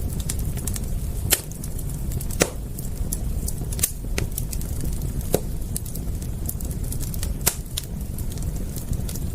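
Wood fire crackling, with a constant scatter of small irregular pops and a few louder snaps, over a steady low rumble.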